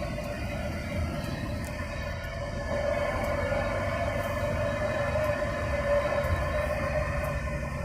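Truck engine running steadily with road noise, heard from inside the cab: a constant low rumble under a steady droning tone.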